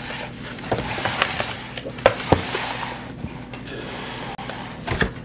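A handful of light clinks and knocks of tableware on a table, with a rustling hiss between about one and three seconds in.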